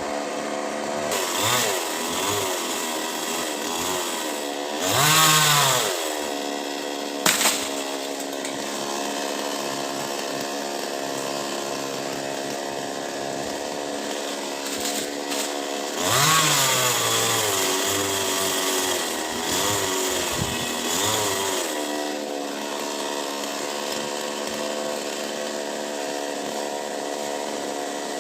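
Two-stroke chainsaw engine running steadily near idle, revved up briefly several times, most strongly about five seconds in and again around sixteen seconds. A short sharp knock comes a couple of seconds after the first big rev.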